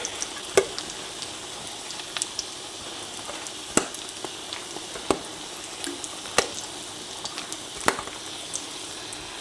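Egg-soaked slices of bread frying in a hot frying pan: a steady sizzle broken by a sharp spit or pop every second or so.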